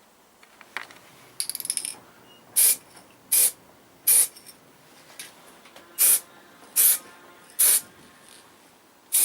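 Aerosol spray-paint can rattled briefly about a second and a half in, then sprayed in six short hissing bursts in two groups of three, each under half a second, with another burst starting right at the end.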